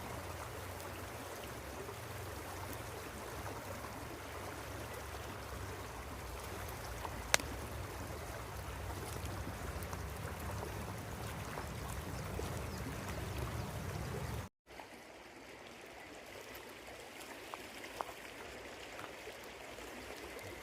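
A river flowing steadily, an even rushing of water, with a single sharp click about a third of the way in. The sound drops out for an instant about two-thirds of the way through and then goes on quieter, with less low rumble.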